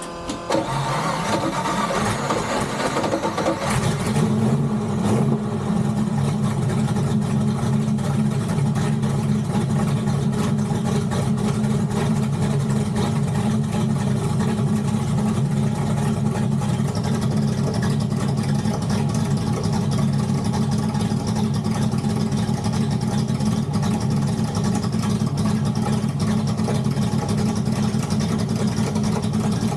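Turbocharged flathead Ford V8 catching about half a second in, revving briefly, then settling into a steady, even idle. It is running with almost no ignition advance, firing at top dead center, and still needs timing and tuning.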